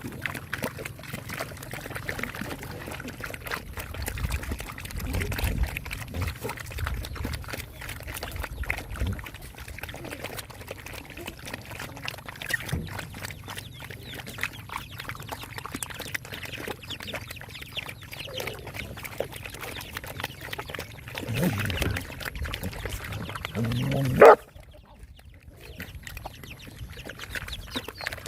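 Dogs eating, with a continuous run of wet smacking, chewing and slurping sounds. A brief loud bump comes near the end, and the sound goes quieter after it.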